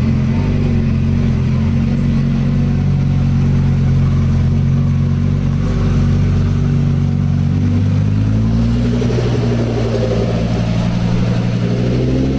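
Sports car engine running with a deep, steady note, its pitch shifting about eight seconds in as the revs change.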